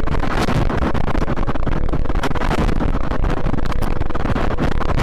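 Strong wind roaring and buffeting the microphone, a loud, steady rumble with constant crackling, from a tornado's winds.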